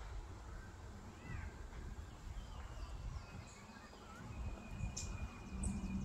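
Wild birds calling: a few short chirps and an arched, slurred note, then a long thin high note near the end, over a steady low rumble.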